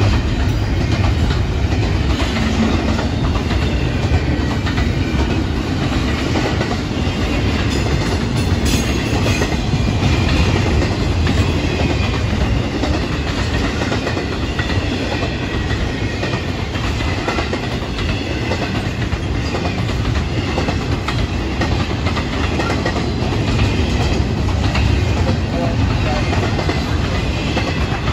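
Intermodal freight train's double-stack container and trailer cars rolling past: a steady rumble of steel wheels on rail with a clickety-clack.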